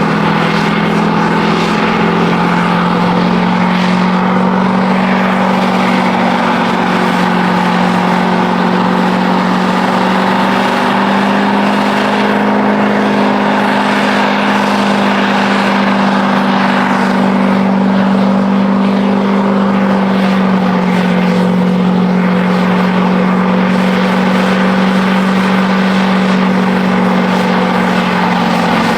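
Truck engine held at high, steady revs, its pitch rising and dipping slightly, as in a burnout.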